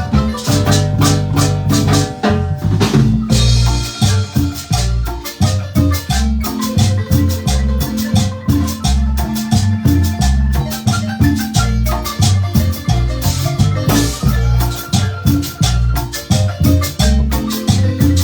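Marimba band playing a lively dance tune, with deep bass notes and steady percussion strokes.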